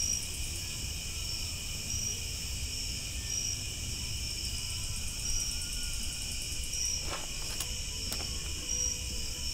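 Night chorus of crickets and other insects: a steady high trilling, with a pulsing chirp repeating about every second and a half. A few faint knocks come near the end.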